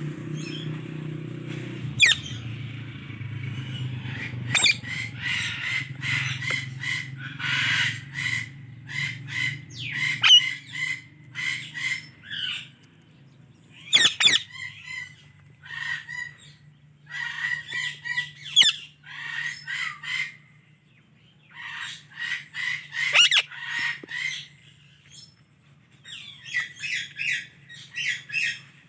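Indian ringneck parakeet chirping: rapid trains of short, high notes in bursts of a second or two, broken by short pauses, with a few sharper calls among them. A steady low hum runs underneath.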